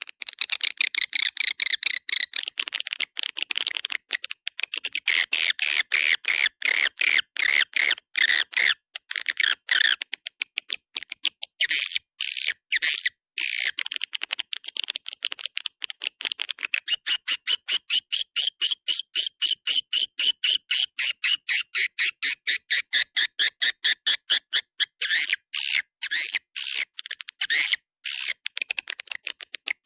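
Swiftlet call recording, the kind played from swiftlet houses to lure edible-nest swiftlets: dense, rapid twittering chirps, settling about halfway through into a quick, even run of chirps with brief gaps.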